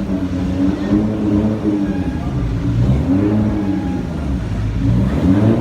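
Car engine revving up and down several times.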